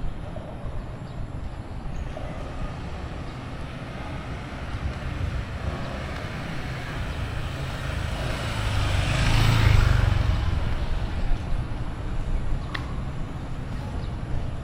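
A vehicle passing close by, swelling to its loudest a little past halfway and then fading, over a steady low rumble.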